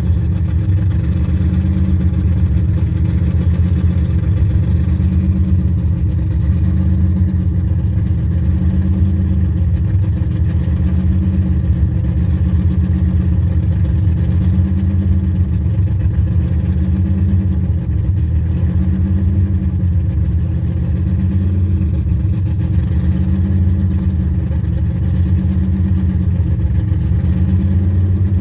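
Freshly built LS3 V8 (12:1 compression, custom camshaft) idling on its first start-up, its note slowly rising and falling every few seconds.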